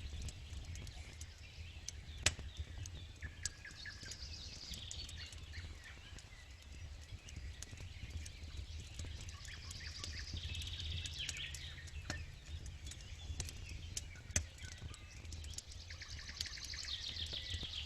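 Campfire crackling with scattered sharp pops, while birds sing in several short stretches of chirps and trills, over a low steady rumble.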